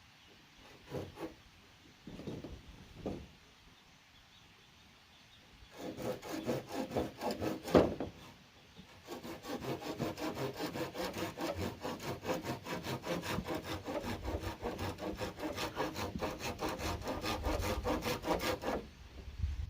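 Hand saw cutting bamboo in quick, even back-and-forth strokes, starting about six seconds in, pausing briefly near eight seconds and stopping just before the end; a few scattered knocks come before it.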